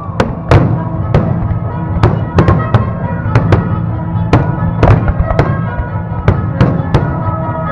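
Fireworks bursting in a string of sharp bangs, about two a second, over music playing throughout.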